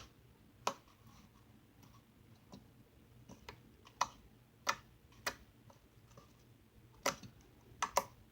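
Sticky slime with sprinkles in it being poked, giving irregular sharp clicks and pops, about ten of them.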